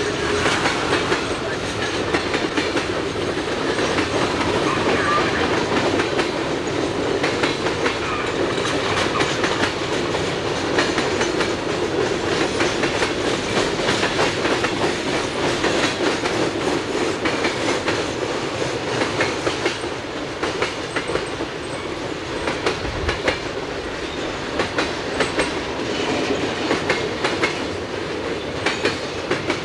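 Freight train cars rolling past, their wheels clicking over rail joints over a steady rumble of rolling noise.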